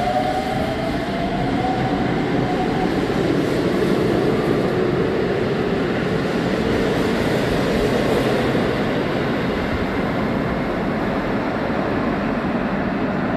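Electric commuter train accelerating through an underground station: a motor whine rises in pitch during the first few seconds, then a steady heavy rumble and rush of wheels on rail as the cars run past and into the tunnel.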